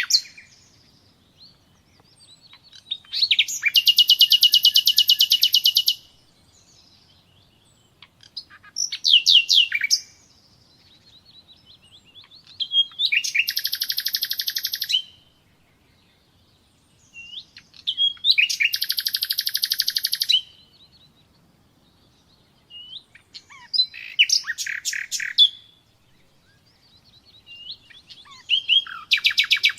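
Common nightingale singing: six loud phrases of two to three seconds each, built of fast runs of repeated notes, with pauses of about two seconds between them.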